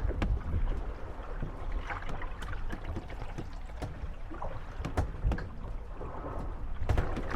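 Moored gondolas rocking on lapping waves, with water slapping against the hulls. Sharp wooden knocks come near the start, twice around five seconds in and again near the end, along with a few creaks as the boats rub against each other.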